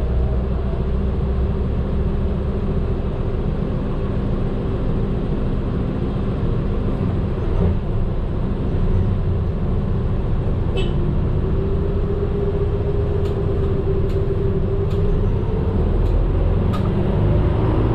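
Medium bus on the move, heard from inside the cabin: a steady low engine and road rumble. About eleven seconds in, a droning tone joins and wavers slightly in pitch.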